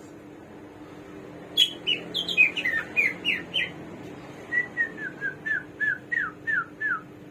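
A caged Chinese hwamei (samyong) singing: a quick run of about seven clear down-slurred whistled notes, then after a short break a second, lower run of about ten falling notes.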